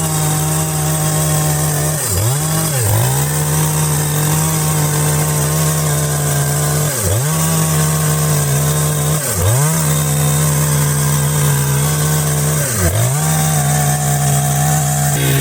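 Chainsaw running at high revs while cutting wood, its engine pitch dipping briefly and recovering about five times.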